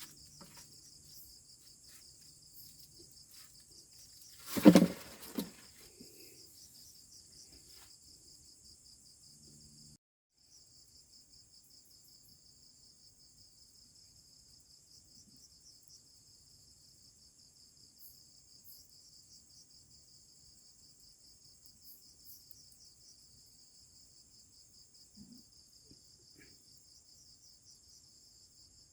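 Insects chirring steadily in a high, finely pulsing chorus, which drops out for a moment about ten seconds in. About five seconds in comes one loud knock or thump, the loudest sound here.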